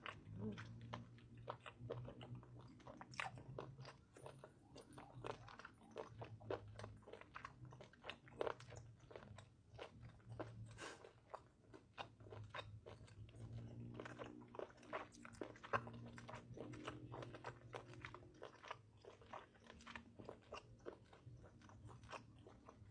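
Close-miked chewing of chuka idako, seasoned baby octopus: a steady run of small wet, crunchy clicks from biting and chewing, with a faint low hum underneath.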